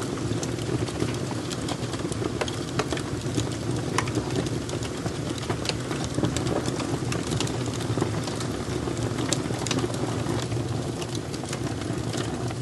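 Fire crackling: a steady low rush of flames with frequent sharp pops and snaps scattered irregularly throughout.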